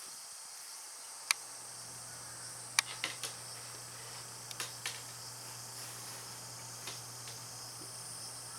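Scattered sharp light clicks and taps from kittens playing with a wicker basket and a cat teaser, some in quick little clusters, over a steady hiss and low hum.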